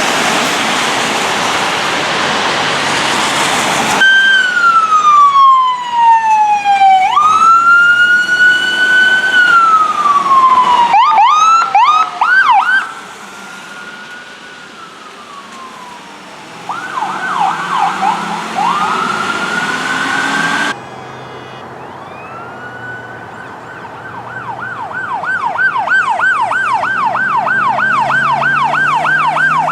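Emergency vehicle electronic sirens from responding fire apparatus: a loud rushing noise for the first few seconds, then a slow wail falling and rising, short bursts of quick yelp sweeps, and near the end a fast yelp repeating several times a second.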